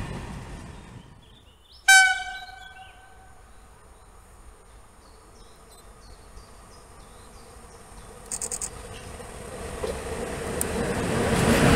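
A single short locomotive horn blast about two seconds in, dying away quickly. The rumble of an ET22 electric locomotive running light then grows louder as it approaches near the end.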